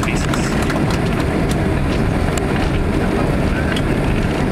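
Steady cabin roar inside a Boeing 767-300 on the ground just after landing: engine and wheel noise, with a few light rattles.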